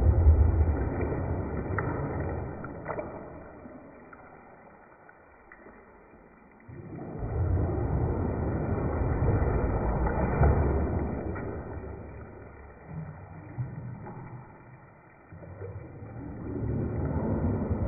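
Bathwater sloshing as waves are stirred up in a bathtub, coming in three surges of a few seconds each with quieter lulls between.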